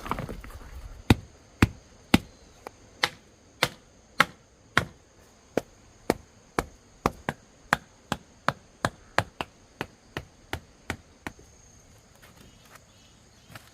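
Wood being chopped: about two dozen sharp strikes, roughly two a second, getting quicker and fainter and stopping about eleven seconds in.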